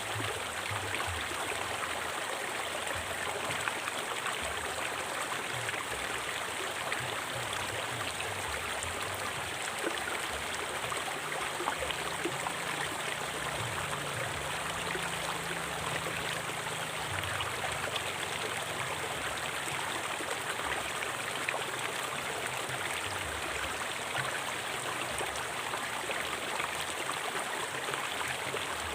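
A stream running steadily over rocks, an even rushing and splashing of flowing water.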